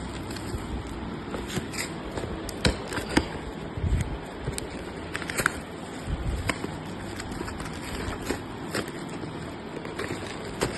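Packaging being handled and opened by hand: scattered scrapes, crinkles and short knocks, with a couple of duller thuds around the middle.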